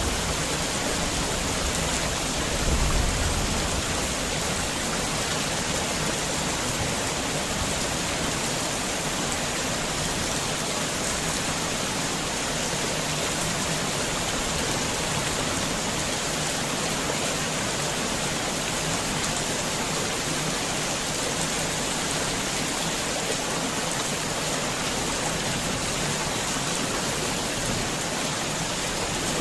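Heavy rain falling steadily, a dense even hiss, with a low rumble in the first few seconds.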